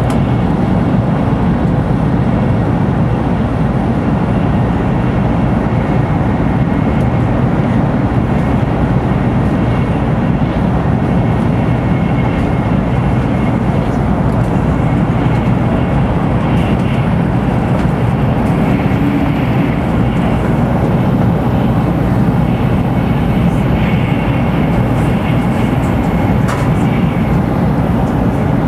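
Steady low running noise of a Shinkansen bullet train at speed, heard from inside the passenger car.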